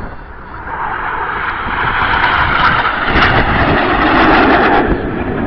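Jet noise from Red Arrows BAE Hawk jets flying past: a rushing roar that swells from about a second in and grows loudest, dropping lower in pitch as the jets pass, then eases off near the end.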